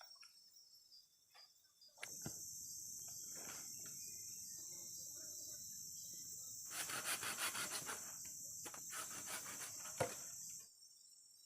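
Insect buzzing, a high steady drone that starts suddenly about two seconds in and stops abruptly near the end, with a stretch of fast, even pulsing in its later part.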